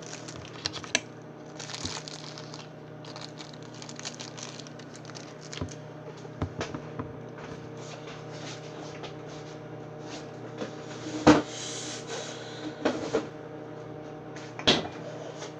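Microwave oven running with a steady hum, overlaid by scattered light knocks and rustles of handling; a sharper knock comes about 11 seconds in and another near the end.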